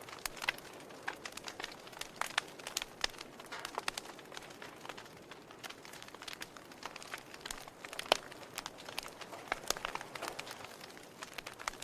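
Wood fire crackling in a fireplace: irregular sharp pops and snaps over a faint steady hiss, the loudest pop about eight seconds in.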